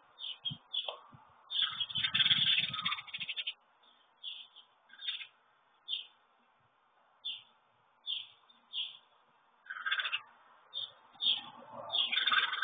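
Repeated short, high chirps from a small songbird, with water splashing and fluttering from a mourning dove bathing in a shallow birdbath about two seconds in and again near the end as it raises its wings.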